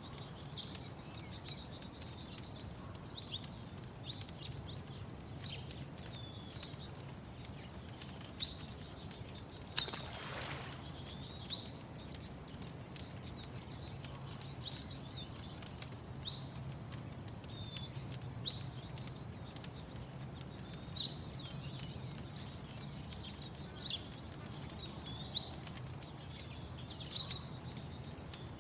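Lakeside dawn ambience: small birds chirping in short, irregular calls over a steady low rumble, with faint crackles of a fire scattered throughout and a brief whoosh about ten seconds in.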